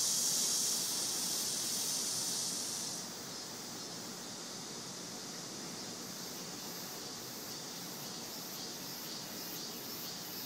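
Cicadas buzzing in a steady high hiss. It is loudest for the first three seconds, then settles a little lower, with a faint pulsing higher buzz joining about halfway through.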